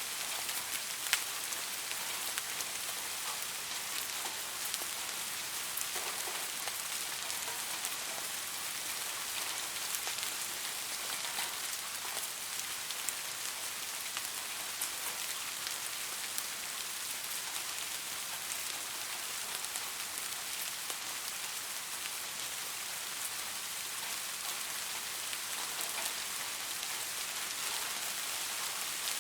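Steady rain falling on a surface, a dense even hiss with scattered sharper ticks of individual drops.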